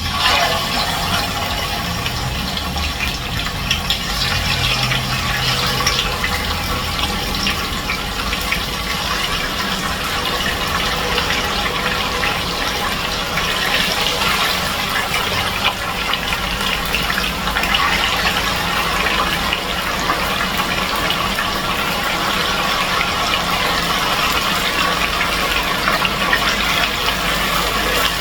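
Chicken pieces frying in hot oil in a pot: a loud, steady sizzle with fine crackling that sets in suddenly as the pieces go into the oil.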